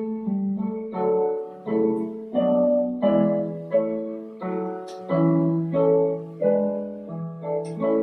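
Piano played as a student recital piece: a steady series of chords, each struck and left to fade before the next.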